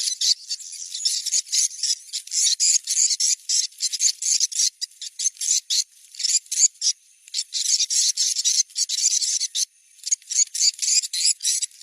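Recorded swiftlet call sound for checking a site: dense runs of rapid, high twittering chirps, with short breaks about seven seconds in and again near ten seconds.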